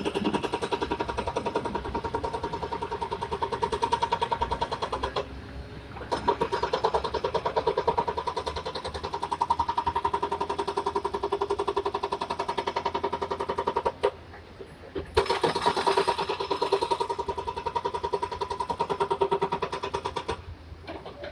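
Kobelco SK200 excavator's diesel engine and hydraulics working under load, a fast steady throb with a high whine. It comes in three spells of several seconds each and drops back briefly between them as the load comes off.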